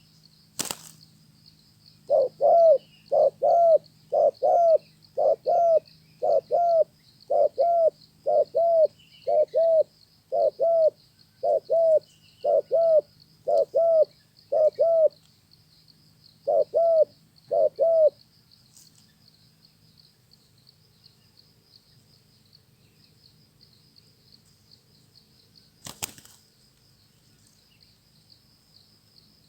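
Spotted dove cooing, a long run of evenly spaced low notes, about one and a half a second, from about two seconds in to eighteen seconds, with a brief break near fifteen seconds. Two sharp clicks, one near the start and one near the end, and a steady faint high insect buzz behind.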